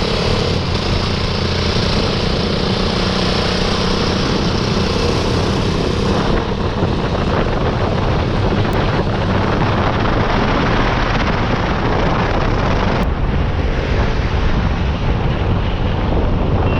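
Motorcycle engine running steadily while riding, under heavy wind noise on the helmet-mounted action camera's microphone.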